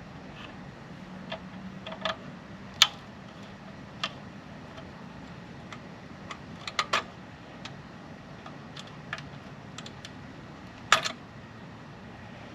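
Scattered sharp clicks and light knocks at irregular intervals, the loudest about three seconds in and another near the end: hands working at the metal cover of a bandsaw's magnetic starter, pulling and prying to get it off.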